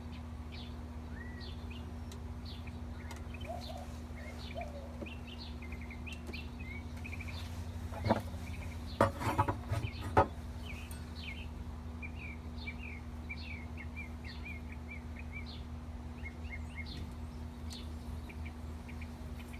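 Small birds chirping over and over, above a steady low hum of honeybees at an open hive. About eight seconds in comes a short cluster of knocks and scrapes, the loudest sounds here, as a hive frame is handled.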